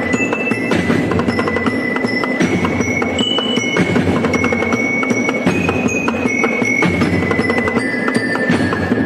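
Percussion music: fast, dense wooden clicking under ringing metallic notes, each held about half a second to a second before the pitch changes.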